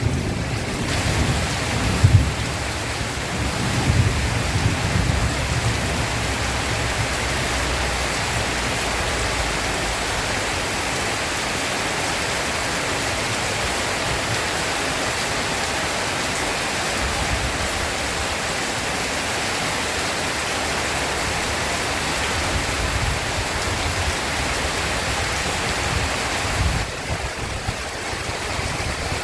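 Heavy rain pouring steadily, with low rumbles of thunder in the first few seconds and fainter rumbling again near the end. The rain's texture changes abruptly a couple of seconds before the end.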